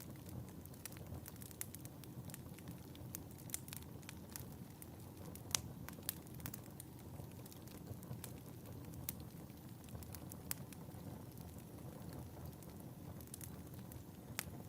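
Wood fire burning in a fireplace: a steady low rumble of flames with frequent irregular crackles and snaps, one louder pop about five and a half seconds in.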